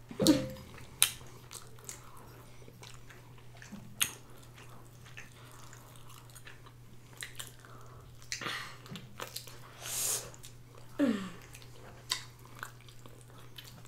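Close-miked eating sounds: chewing and biting into buffalo wings and pizza, with scattered sharp wet mouth clicks and a couple of louder, noisier bites about eight and ten seconds in.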